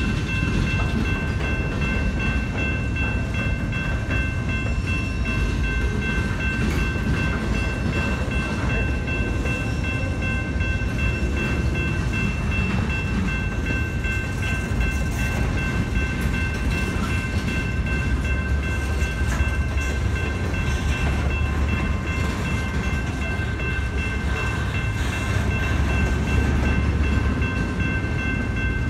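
Double-stack container freight train rolling past with a steady rumble of wheels on rail, a few steady high-pitched tones ringing over it.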